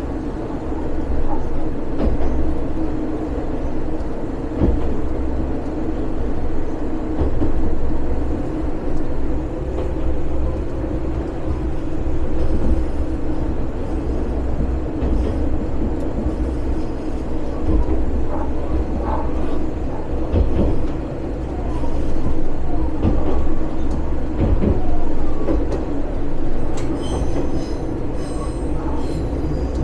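Single-car diesel railcar running along the line: a steady engine and wheel rumble with scattered small rail clicks. High-pitched wheel squeal sets in near the end.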